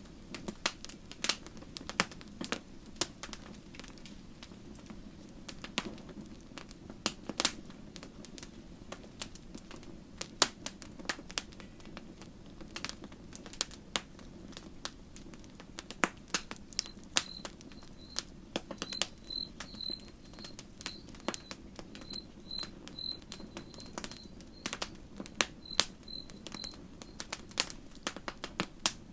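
Wood campfire crackling, with irregular sharp pops and snaps over a steady low rumble of the flames. About halfway through, a high chirping of short repeated notes, two or three a second, comes in for around ten seconds.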